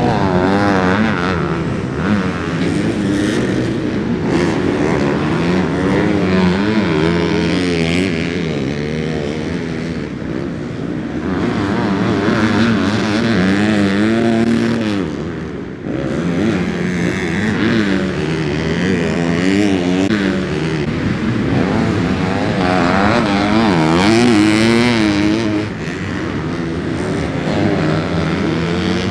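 Motocross dirt bike engines racing, revving up and down again and again as the riders throttle and shift, the pitch rising and falling every few seconds.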